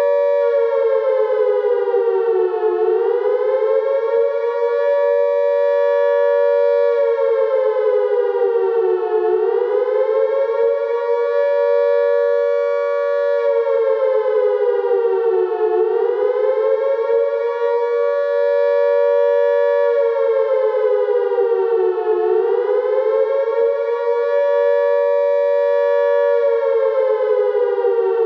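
Siren wailing steadily, its pitch sagging and climbing back up about every six and a half seconds, then holding level between the dips.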